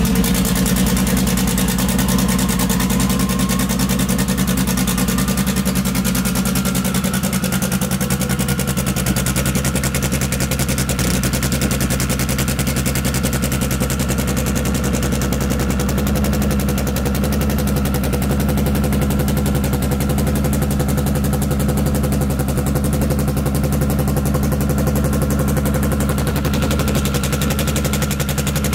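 Turbocharged Honda four-cylinder drag-car engine running at a steady, choppy idle just after start-up, exhausting through open upturned pipes with no muffler.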